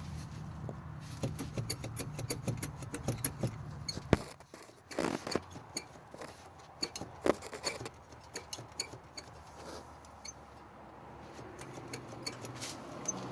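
Irregular clicks and knocks, one sharp knock about four seconds in, as the driver's-side wheel hub assembly of a 2003 Chevy Venture is worked by hand to check for play. The bearing is bad.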